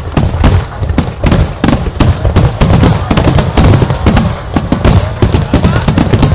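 Finale barrage of aerial fireworks: a rapid, continuous run of overlapping booms and crackling bursts, several a second, over a heavy low rumble.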